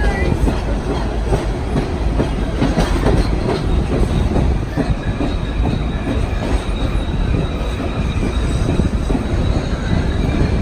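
Passenger train cars rolling along the track: a steady rumble of wheels on rail with scattered clacks over the joints, and a faint thin wheel squeal through the middle.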